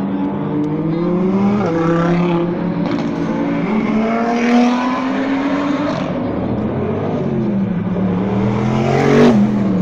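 Sports car engines passing one after another, each revving up through the gears and then falling in pitch as it goes by. The loudest car passes near the end.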